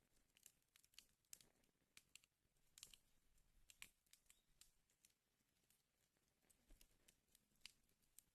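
Wood fire burning in a fireplace, faint crackling with irregular sharp pops and snaps over a soft hiss.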